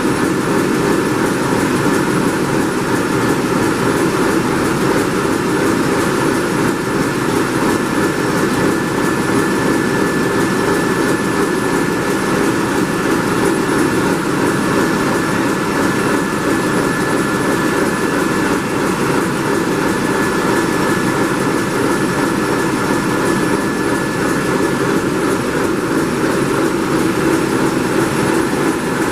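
Large MaK marine diesel engine running steadily: a loud, even mechanical din with a thin high whine held through it.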